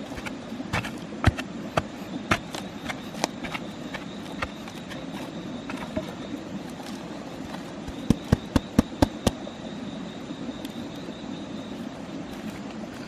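Knife blade chopping wood: single sharp strikes at uneven intervals, then a quick run of about six chops near the end, over a steady background hum.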